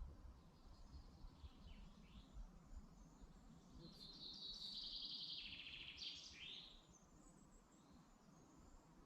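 A songbird singing in woodland: a few faint short calls, then about four seconds in a brighter, fast run of repeated notes lasting around three seconds and ending in a couple of quick downward flourishes. A faint low background rumble underlies it.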